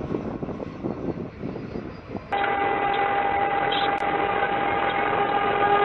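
Street and vehicle noise, then about two seconds in a train horn starts a steady, continuous blast as the train approaches the crossing.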